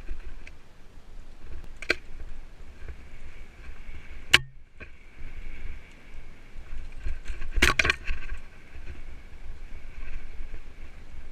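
Mountain bike rolling over a forest trail, with wind rumbling on the action camera's microphone. Sharp rattles and knocks come as the bike hits bumps, the loudest a little after four seconds.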